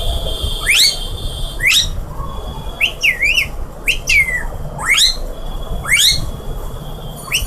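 Female Alexandrine parakeet calling: a series of short, sharply rising whistled calls about once a second, with a couple of quick up-and-down warbling chirps about three seconds in.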